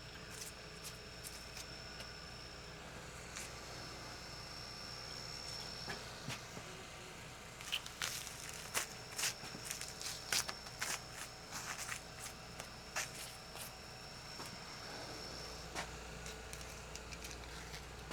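Skinning and handling of a cooler-stiffened deer carcass: scattered clicks and crackles, thickest in a run around the middle, over a steady high-pitched whine.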